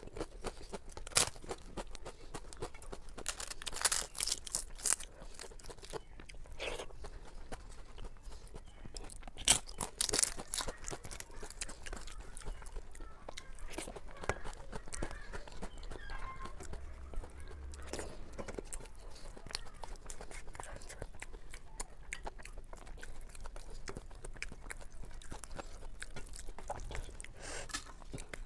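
Close-miked chewing with irregular sharp crunches as a crisp flatbread is bitten and eaten with soft dal khichdi, the loudest crunches about four and ten seconds in.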